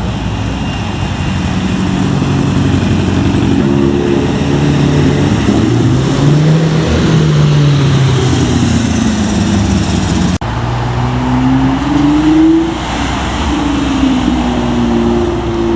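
Car engines revving and accelerating, their pitch rising and falling several times, with an abrupt change to a different engine about ten seconds in.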